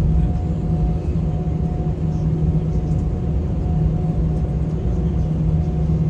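Airliner engines and rolling noise heard inside the passenger cabin as takeoff begins: a loud, steady low rumble with a steady hum over it.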